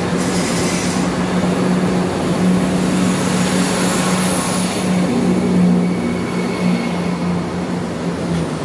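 CrossCountry Class 170 Turbostar diesel multiple unit pulling into the platform and passing close by, its diesel engines giving a steady low drone over rumbling wheels.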